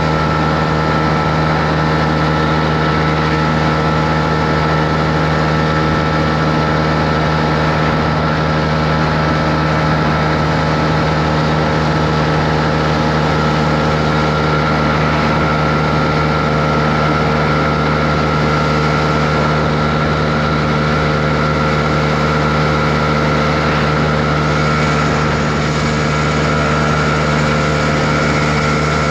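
Honda CB125R's single-cylinder four-stroke engine running at a steady, unchanging speed, with no revving or gear changes.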